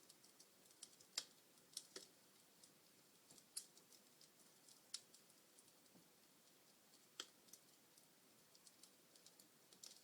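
Wood fire crackling in a fireplace: irregular sharp pops and snaps over a faint hiss, the loudest ones about a second in and around three and a half seconds in.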